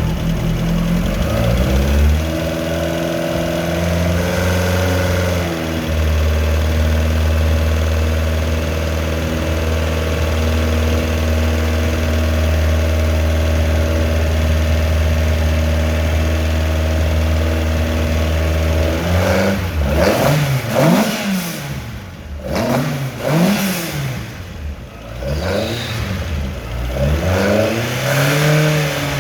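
Rally car engine revving: it climbs from a lower speed about a second or two in and is held at a steady higher speed for about thirteen seconds. Then it is blipped up and down several times in quick succession and settles back near the end.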